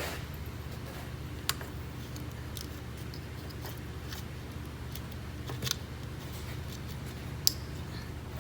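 Air filter and intake housing parts being handled and fitted, with three sharp clicks, the loudest near the end, over a steady low hum.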